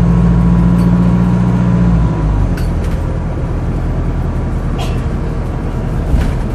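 Wright StreetDeck double-decker bus's Mercedes OM934 four-cylinder diesel engine running under load with a strong low drone, which drops away about two seconds in as the bus eases off, then carries on at a lower, rougher note.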